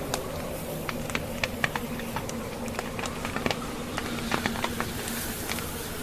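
Wood fire in a fireplace crackling, logs snapping in many irregular sharp pops, over a steady whoosh of blizzard wind.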